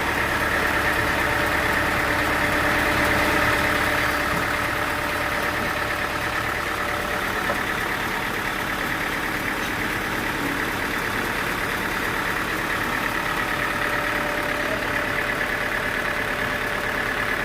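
Sawmill machinery running steadily, a continuous engine-like hum with a few steady tones, a little louder for the first few seconds.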